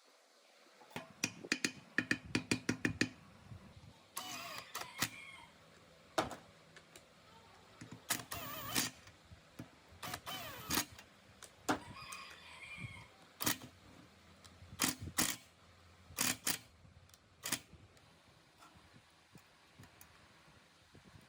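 Hand work on metal machine parts: a quick run of clicks, then scattered sharp knocks and short squeaky scrapes of metal on metal, trailing off near the end.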